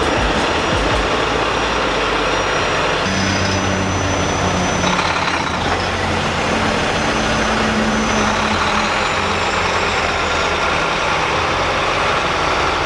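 Semi-truck's diesel engine running, loud and steady, its pitch stepping up and down a few times.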